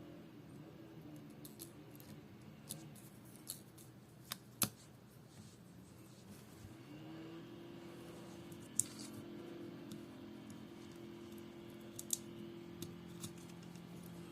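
Scattered sharp clicks and taps of small hand tools on the tiny parts of a smartwatch being worked on, about ten in all, with the loudest about four and a half seconds in. A steady low hum runs underneath.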